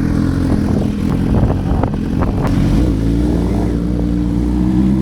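Suzuki GSX-R750 sport bike's inline-four engine running steadily, its pitch rising slightly in the second half.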